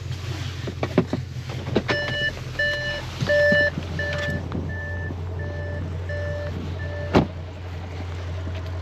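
Audi S6 idling with a steady low hum while the car's electronic warning chime beeps about eight times, a little under two beeps a second, fading toward the end. A single sharp click follows near the end.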